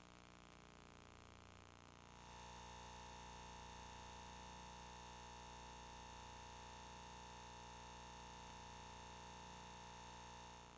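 A steady, faint sine-wave test tone near 1 kHz, like those recorded at the head of a VHS tape. It comes on about two seconds in and holds at one pitch, over faint tape hiss and hum.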